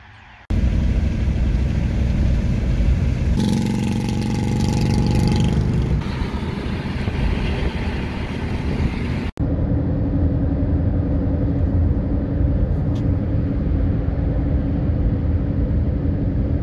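Vehicle driving noise: a steady, loud rumble of engine and road. It starts abruptly, cuts off sharply about nine seconds in, then resumes straight away with a steady low hum.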